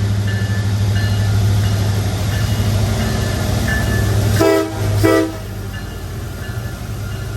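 Freight train locomotive sounding two short horn blasts about four and a half and five seconds in, over a steady low engine drone.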